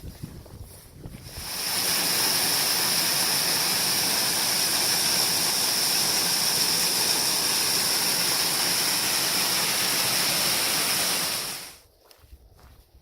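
Steady rushing noise, like a waterfall or fast whitewater, that fades in about a second and a half in and stops abruptly near the end.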